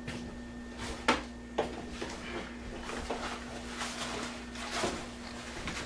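Scattered light knocks and rustling of bags and gear being handled and set down, with two sharper knocks about a second in, over a steady low hum.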